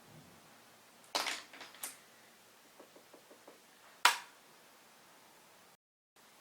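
Makeup tools and containers being handled: a cluster of sharp clicks and taps about a second in, a row of faint quick ticks, then one loud sharp click about four seconds in.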